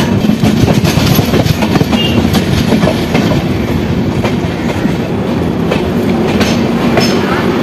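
LHB passenger coaches of an express train rolling along at a station platform: a steady rumble with a rapid, irregular clatter of wheels over rail joints, heard from the coach's side.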